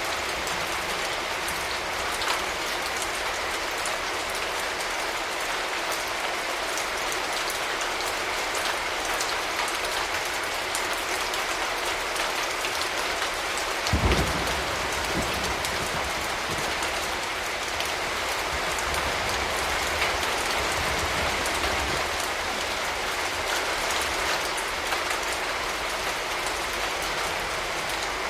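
Steady rain falling on surfaces, with a brief low rumble of distant thunder about halfway through and a fainter rumble trailing after it.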